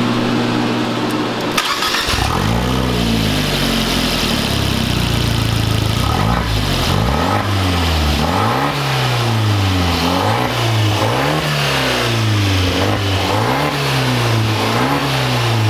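Fiat 124 Spider Abarth's 1.4-litre turbocharged four-cylinder engine, fitted with a newly installed blow-off valve, idling and then being revved. A sharp click comes about a second and a half in, then a first long rise in revs. After that the throttle is blipped again and again, the revs rising and falling about once a second.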